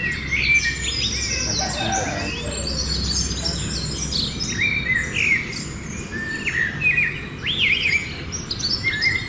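Many birds chirping and calling at once, short overlapping chirps, whistled glides and trills, over a steady low rumble.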